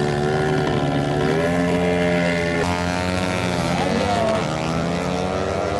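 A race vehicle's engine running with a steady drone. Its pitch shifts about halfway through and wavers about four seconds in.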